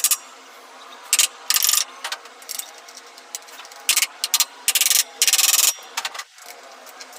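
Hand scraping or filing strokes on metal in separate rasping bursts, the longest about a second, over a faint steady hum.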